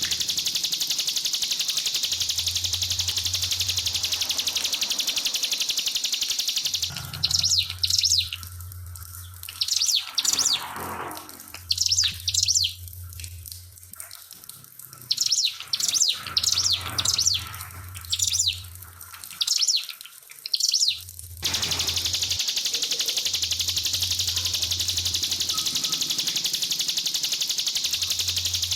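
Steady trickling-water hiss. From about 7 s to 21 s the water drops away and a ciblek pinus (a prinia) sings rapid bursts of high, down-slurred notes in short repeated phrases. Then the water sound returns.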